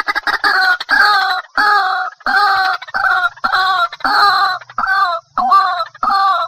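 White-breasted waterhen calling: a fast, stuttering run of notes at the start settles into a steady series of loud, repeated call notes, about two a second.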